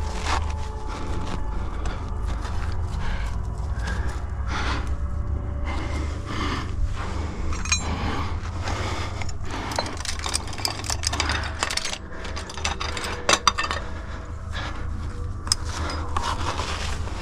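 A climber's body and clothing scrape and rub against sandstone while working up a chimney. Irregular sharp clicks and knocks are scattered through, the loudest two a little after the middle and near the end, over a steady low rumble.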